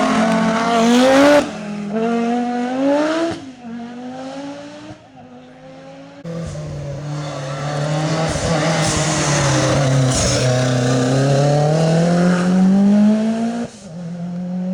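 Rally car engines revving hard under acceleration, pitch climbing through gearchanges, with abrupt cuts between cars. Near the end a car comes in loud, its engine note dropping as it slows and then rising again as it accelerates away.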